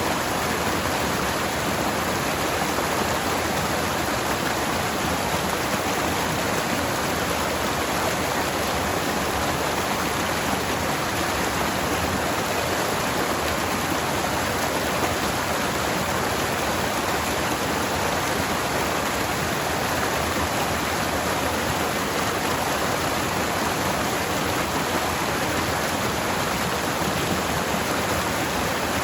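Forest stream water flowing over rocks, a steady even rush of rushing and splashing water.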